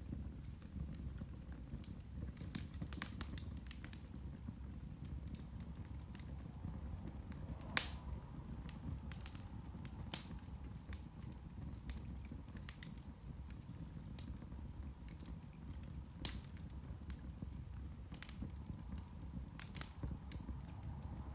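Irish turf (peat) fire crackling: scattered sharp pops and snaps over a low, steady rumble, the sharpest pop about eight seconds in.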